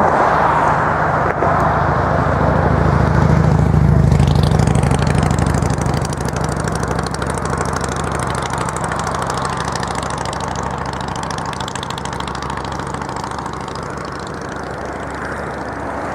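A motor vehicle's engine running with a steady low rumble. It grows louder to about four seconds in, then slowly fades.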